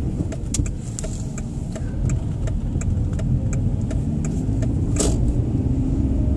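Car driving along a road, heard from inside the cabin: a steady low rumble of engine and tyres, with a rapid even ticking of about four clicks a second and one sharper knock about five seconds in.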